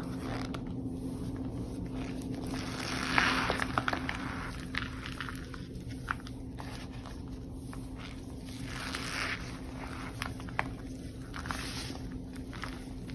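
Reformed blocks of chalky powder (gym chalk, cornstarch) being crushed and crumbled by hand: soft crunching bursts with sharp little cracks, the loudest about three seconds in, with more crumbling near the end. A steady low hum runs underneath.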